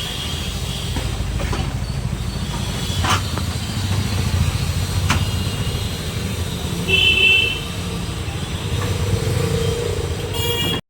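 Steady road-traffic rumble, with a few sharp clicks and a short high beep about seven seconds in.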